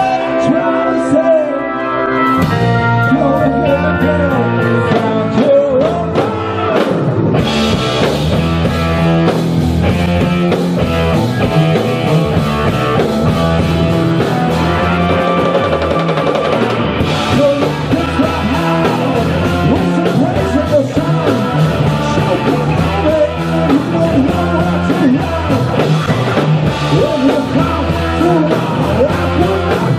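Live blues-rock band playing loudly; the lower end fills in with bass about two seconds in, and the full band with drum kit plays on.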